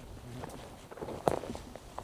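Footsteps of a person walking on a forest trail: irregular steps and small scuffs, the loudest just over a second in.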